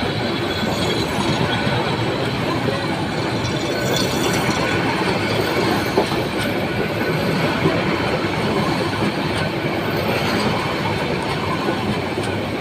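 Express train carriages running past on the track: a steady rumble and rattle of wheels on rail, with a couple of sharp clicks partway through.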